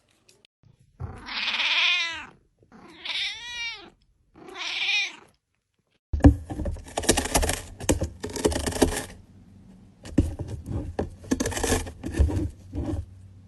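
A domestic cat meowing three times in long, drawn-out calls, followed by several seconds of scratchy noise with many clicks.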